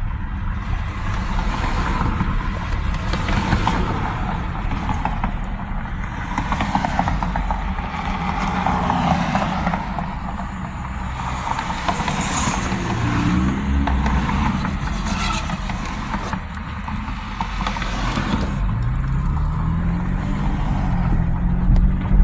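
A car driving, with steady engine and road noise. The engine's pitch rises as it speeds up about thirteen seconds in, and again near the end.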